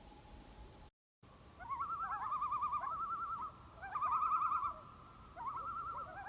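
Common loon giving tremolo calls: quavering, laughing calls in three bursts, starting about a second and a half in after a brief dropout.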